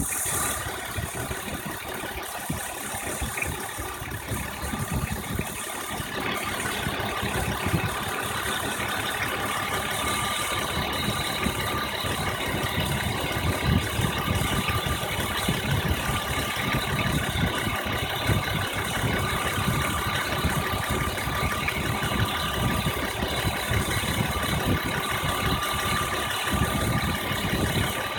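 1997 BMW M3 (E36) straight-six engine idling, with a steady chirping noise running over the engine sound.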